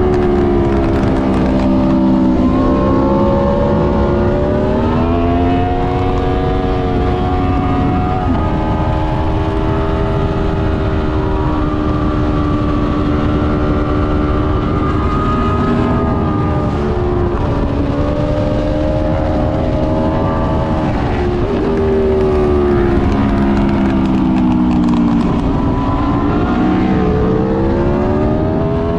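2020 Aprilia Tuono V4 Factory's V4 engine at speed on track, revs climbing and falling through the gears with several sudden drops in pitch as it shifts, over heavy wind rumble on the onboard microphone.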